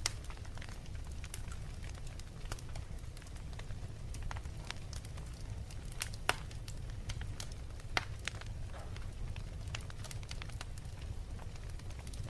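Fireplace fire crackling: irregular sharp pops and snaps over a steady low rumble of the flames. Louder pops come at the start and again about six and eight seconds in.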